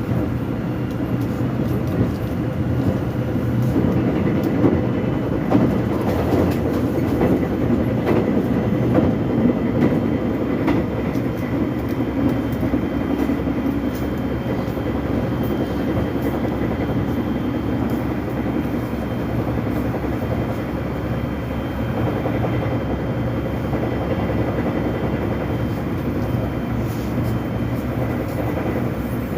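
Korean subway train running between stations: a steady rumble of wheels on the track, with scattered light clicks and knocks, a little louder in the first third.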